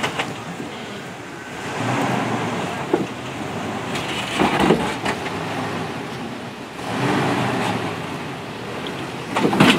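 Jeep engine running and revving in surges as it crawls over creek rocks, with a few sharp knocks from the rocks.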